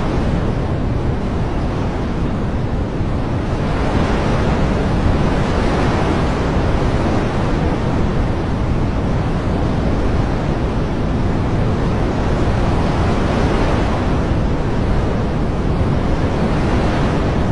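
Steady, dense rushing noise of a nature ambience, swelling a little and easing back a couple of times.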